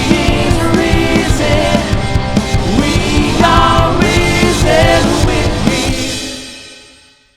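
Live worship song with a sung melody over a full band with drums, fading out near the end.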